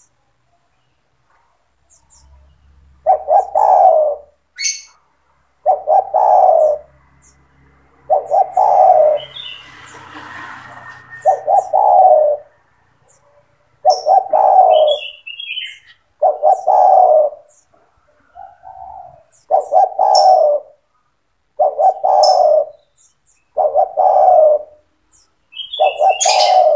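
Spotted dove (tekukur) cooing over and over, a short coo phrase every one to two seconds after a quiet first few seconds. Faint high chirps of small birds are heard between the coos.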